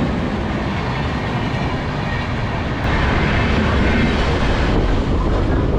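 Electric suburban train running along the track, heard on board: a steady rumble and rush of wheels on rail, which gets louder about three seconds in.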